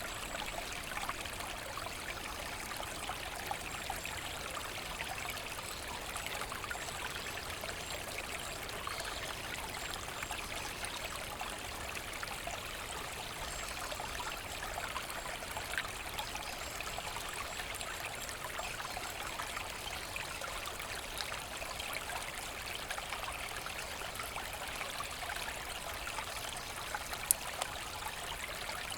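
Forest brook running steadily, with one brief sharp click near the end.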